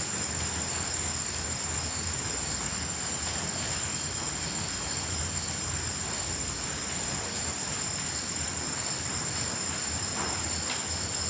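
Crickets chirring in a continuous, unbroken high-pitched trill over a steady background hiss.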